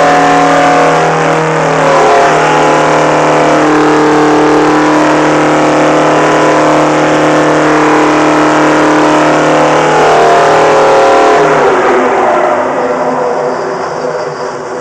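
Old truck engine in a runaway, running out of control at high, steady revs; about eleven seconds in its pitch drops and it winds down, fading near the end.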